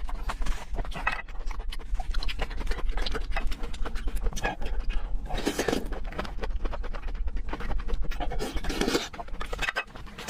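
Close-up mouth sounds of a person eating raw seafood: wet chewing clicks and slurps, with a couple of louder breathy slurps about halfway through and near the end.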